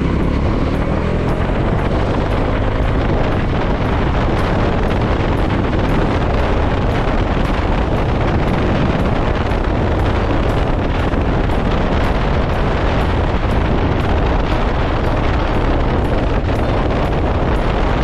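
Bajaj Dominar 400's single-cylinder engine running under way, with heavy wind noise on the microphone; the engine note rises briefly near the start as it picks up speed.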